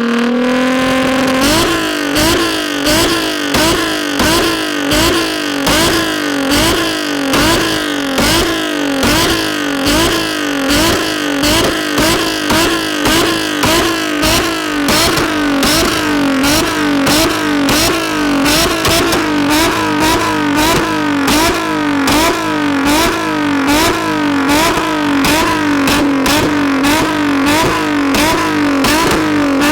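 Infiniti G35's 3.5-litre V6 through a Tomei Expreme Ti exhaust, revved over and over at about one and a half blips a second. Sharp crackles and pops from a tune set up for pops and flames run through the revs.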